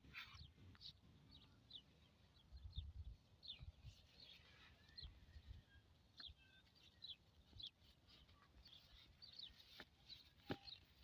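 Faint, scattered bird chirps: many short high calls, a few each second, over a low, quiet rumble.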